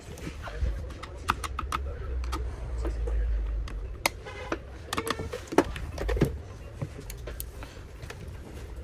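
Irregular light clicks and taps of hand work on small hard parts, with a quick rattle of about ten clicks about four and a half seconds in, over a low hum.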